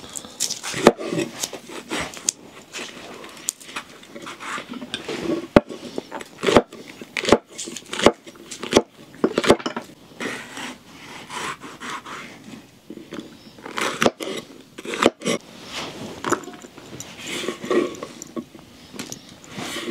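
Cookware and utensils clinking and knocking in irregular sharp knocks, as a meal is prepared.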